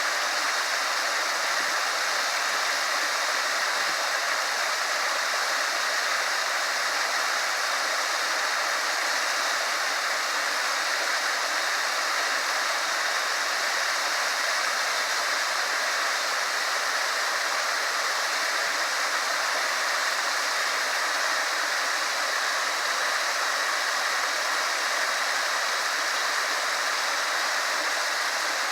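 A small waterfall rushing steadily, loud and unbroken.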